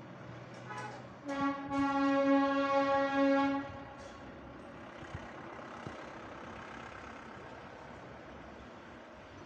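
Diesel locomotive horn: a short toot, then a single-pitched blast held for about two seconds, over a low steady background.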